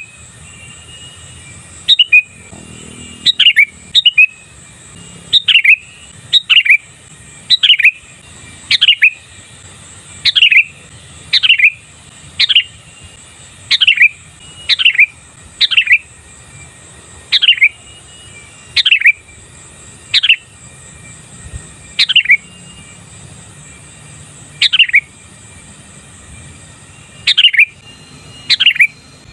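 Sooty-headed bulbul (kutilang) calling over and over: short, loud notes that each drop steeply in pitch, about one a second, some coming in quick pairs.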